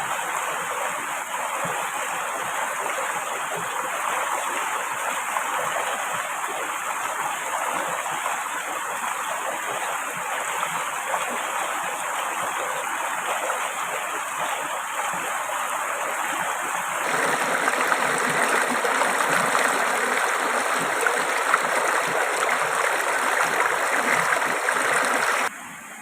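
Steady rushing of flowing river water. About two-thirds of the way through it cuts abruptly to a louder, brighter rush.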